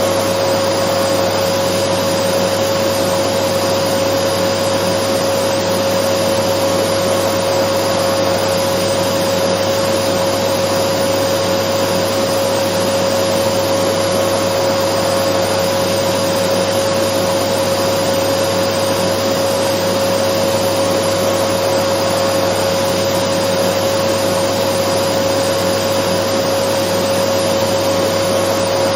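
Dyson vacuum cleaner running steadily: a constant rush of air with a steady whine held at one pitch, unchanging throughout.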